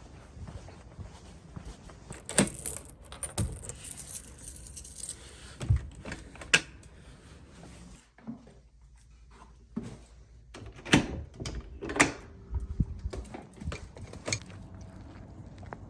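Small hard objects jangling and clinking, like keys being handled, followed by a few separate sharp clicks and knocks.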